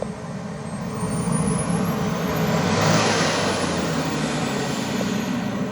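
Large-scale RC BDX aerobatic airplane's power plant running at speed. It gets louder to a peak about three seconds in and then eases off, with a high whine that rises and falls in pitch.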